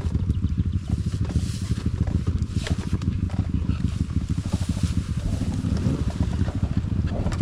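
Enduro dirt bike engine running, a rapid train of firing pulses.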